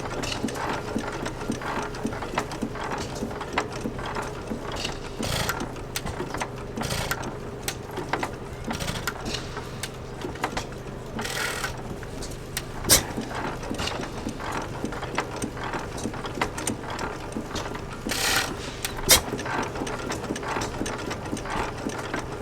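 Armstrong 6 hp cam-wobbler hit-and-miss engine running just after start-up, its valve gear and wobble cam clicking and clattering steadily. A couple of sharper cracks stand out, one about halfway through and one later.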